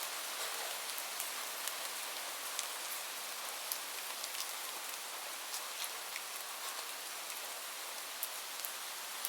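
Steady rain falling, an even hiss, with scattered sharp high ticks throughout.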